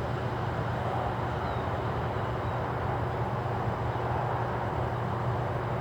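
Steady low rumble of distant road traffic, an even city hum with no distinct events.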